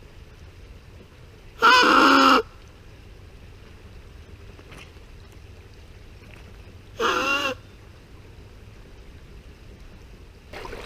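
Two loud honking bird calls, each under a second long, about five seconds apart.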